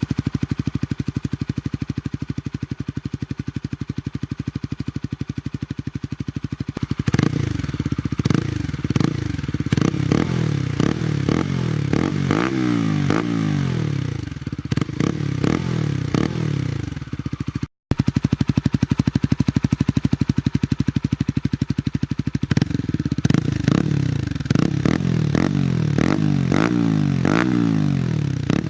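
Honda CBR125R's single-cylinder 125 cc four-stroke engine through an aftermarket Scorpion carbon exhaust, idling steadily, then revved in a run of quick throttle blips with the pitch falling back after each. After a break about two-thirds in it idles again and is blipped repeatedly once more.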